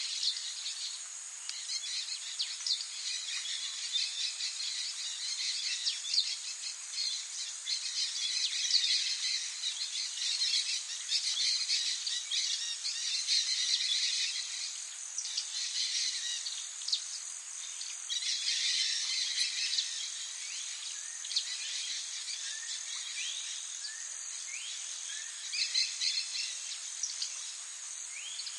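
Many songbirds chirping and trilling together in rapid, overlapping short calls, over a steady high-pitched shrill in the background.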